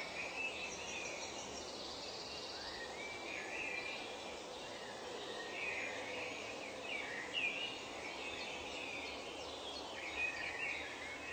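Forest birdsong: several birds giving short, sliding chirps and calls over a steady background hiss, with a fast, high pulsing trill in the first couple of seconds.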